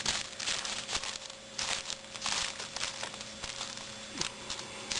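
Irregular crinkling and rustling of tin foil and gloves as hands mix raw ground beef into diced vegetables, several short bursts a second.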